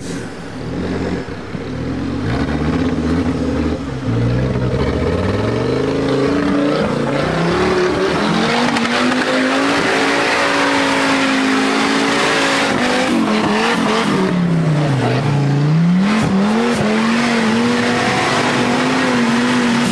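Off-road vehicle's engine revving hard under load. The pitch climbs over the first several seconds and stays high, drops sharply once about three-quarters of the way through, then revs straight back up. A loud rushing noise runs over the engine throughout.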